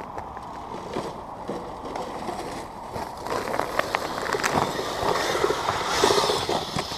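RC Kyosho Blizzard snowcat with Traxxas 380 electric motors driving over snow, its motors and tracks whirring with scattered clicks; it grows louder about four seconds in.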